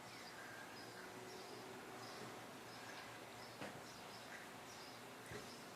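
Faint bird chirps, short and high, repeating every half second or so over a low, even background noise, with a couple of soft knocks in the latter half.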